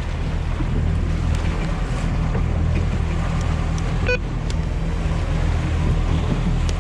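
Fishing boat's engine running steadily with a low hum, under wind and water noise. There is a brief click about four seconds in.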